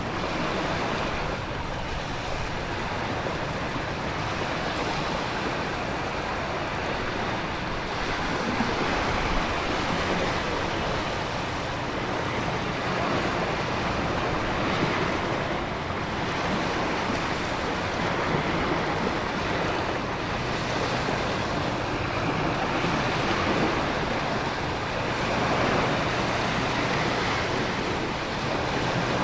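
Storm ambience: a continuous wash of heavy rain, wind and ocean surf, swelling every few seconds as waves break.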